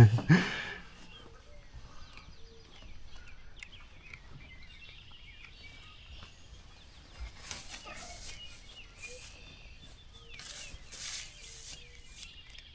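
Quiet outdoor ambience with faint songbird chirps, broken by a few short bursts of rustling, about halfway through and again near the end.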